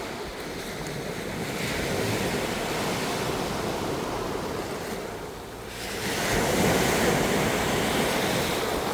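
Ocean waves breaking and washing on a shore, the surf swelling about a second and a half in, easing briefly, and breaking again louder about six seconds in.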